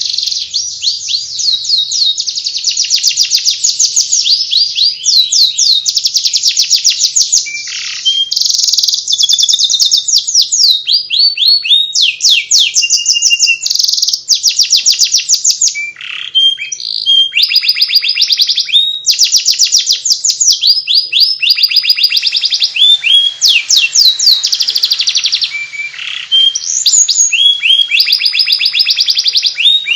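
Domestic canary singing in the fast twittering 'ngeriwik' style: rapid high-pitched trills strung into long runs, broken only by brief pauses.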